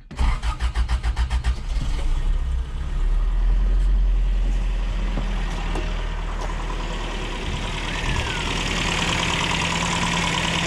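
Carbureted truck engine cranking on the starter for about two seconds, catching, rising briefly in revs, then settling into a steady idle.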